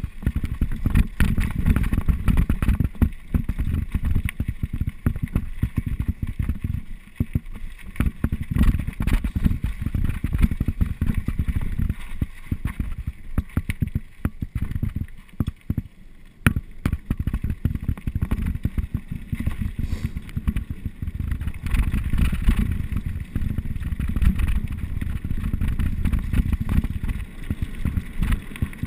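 Wind buffeting the microphone and the rattle of a mountain bike riding down a rough trail: a loud, uneven rumble full of small knocks, easing briefly about 7 and 15 seconds in.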